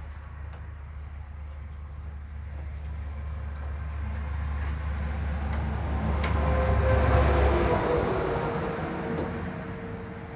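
A vehicle passing by, growing louder for about seven seconds and then fading away, over a steady low hum that cuts off about eight seconds in.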